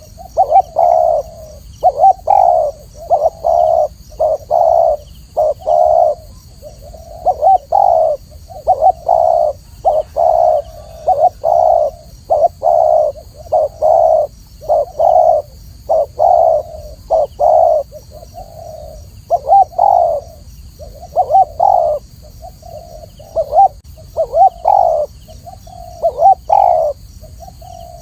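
Spotted dove cooing: repeated short, clear coo notes in quick groups with brief pauses between them.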